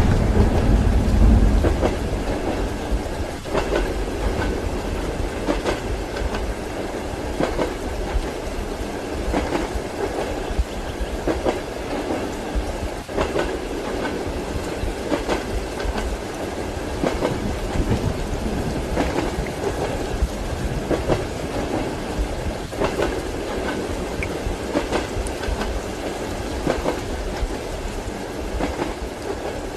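Train wheels clacking over rail joints, heard from inside a carriage, in a steady rhythm of a click every second or two over a constant running rumble, with a hiss of rain. A deep low rumble swells in the first couple of seconds.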